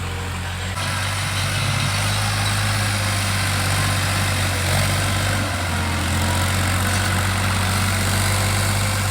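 New Holland 3630 tractor's diesel engine running steadily with a low drone, with a broad noisy hiss over it that grows louder about a second in.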